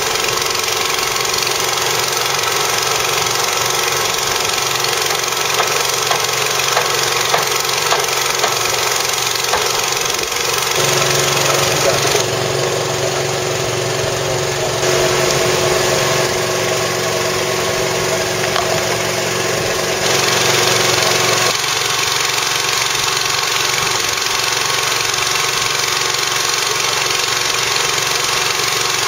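A small engine running steadily, its tone shifting abruptly about eleven seconds in and shifting back about twenty-one seconds in.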